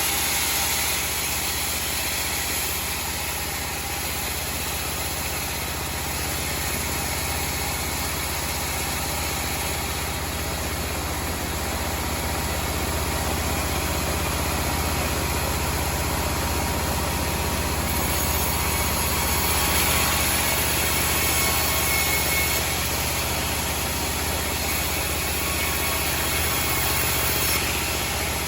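Homemade band sawmill running with a steady, unbroken low machine hum.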